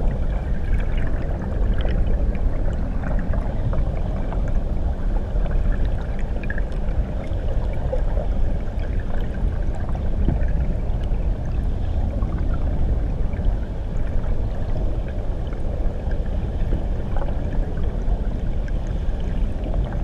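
Muffled underwater rumble of a waterfall heard from beneath the surface: a steady deep wash with faint bubbling ticks scattered through it.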